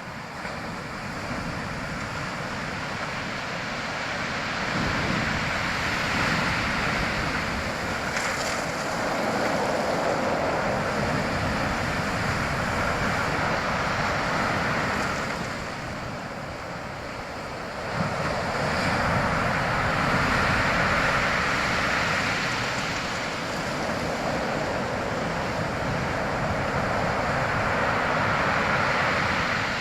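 Waves washing in: a steady rush of surf that swells and fades in slow surges several seconds apart.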